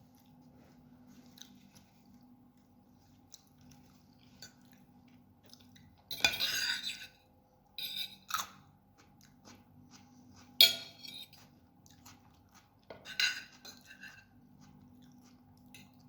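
Close-miked chewing of lagman noodles, with four short, louder eating and utensil noises at about six, eight, ten and thirteen seconds in. A faint steady hum runs underneath.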